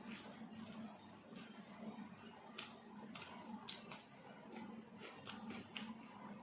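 A person eating roti and chilli chicken: faint, irregular clicks of chewing and lip smacking, several a second, over a steady low hum.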